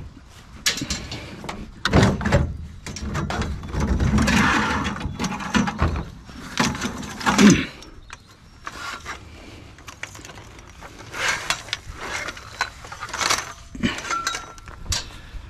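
Scrap metal and junk being shifted and restacked in a truck bed: irregular clanks, knocks and scraping, with the loudest knocks about two seconds in and again near the middle.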